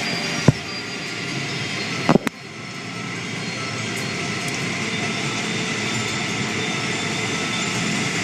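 Automatic car wash machinery running with a steady rushing noise, broken by a sharp knock about half a second in and a double knock a little after two seconds, after which the noise dips and builds back up.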